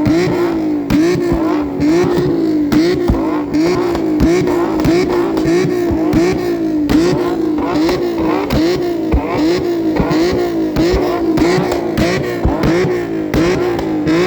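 Car engine being revved over and over in a steady rhythm, its pitch climbing and then dropping about three times every two seconds.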